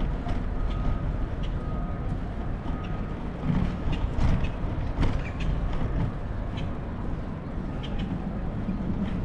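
Vehicle traffic and a steady low rumble, with scattered short clicks and creaks throughout.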